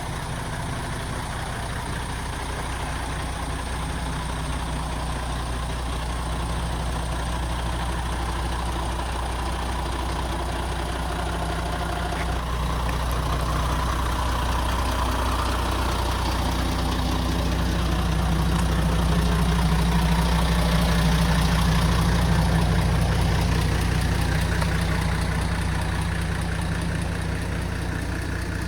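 MAN TGX 26.440 tractor unit's six-cylinder diesel engine idling steadily, growing gradually louder toward about two-thirds through, then easing off a little near the end.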